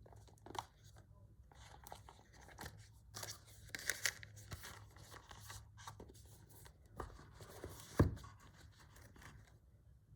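Packaging being handled: irregular crinkling and tearing rustles, with one sharp knock about eight seconds in.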